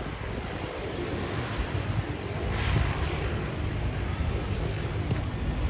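Airliner engine noise: a steady rumble that grows slightly louder, with wind buffeting the microphone.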